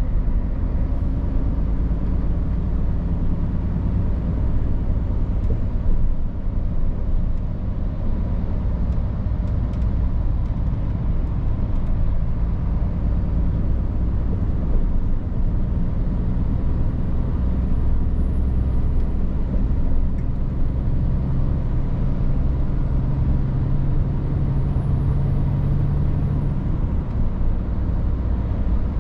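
Scania R450 truck's 13-litre six-cylinder diesel engine running under way, with steady engine and road noise. The engine note grows louder and clearer in the second half as it pulls.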